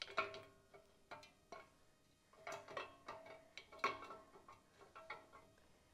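Ford 300 inline-six camshaft being worked out of the cast-iron block, its steel lobes and journals clinking and knocking against the cam bearings. The sharp metal clinks ring briefly and come in irregular clusters, loudest about four seconds in.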